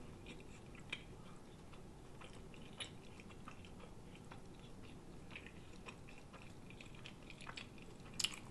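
Faint close-miked chewing of a fried cod sandwich on a soft bun with lettuce, with small wet mouth clicks here and there.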